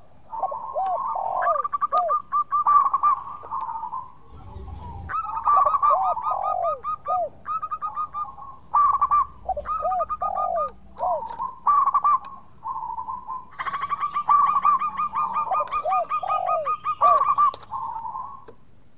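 Zebra dove (perkutut) singing: repeated phrases of rapid, clipped notes over looping, dipping coos, with short breaks between the phrases.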